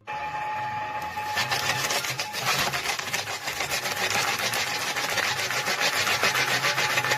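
A tool working on material with a fast, even rasping rhythm, which sets in about a second in after a short steady tone.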